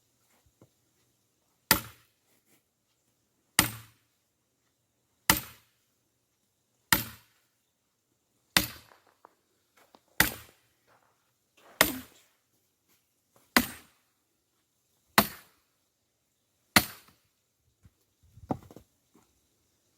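Axe striking and splitting larch firewood logs: ten sharp, evenly paced chops about every second and a half to two seconds, then a softer, lower clatter of wood near the end.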